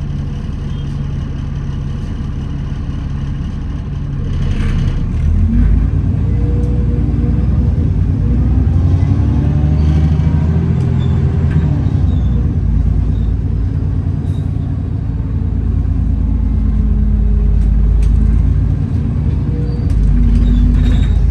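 Alexander Dennis Enviro400 double-decker bus heard from on board. It idles, then pulls away about four seconds in with the engine and drivetrain whine rising in pitch. The whine falls off and the bus runs on, picking up again near the end.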